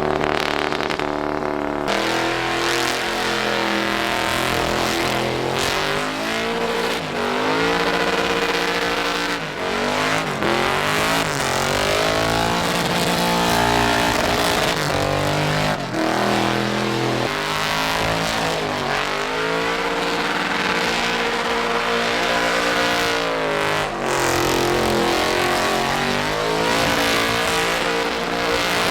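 Truck engine revving hard in repeated rises and falls during a burnout, with the hiss of spinning tires. An edit cut about two seconds in changes the sound.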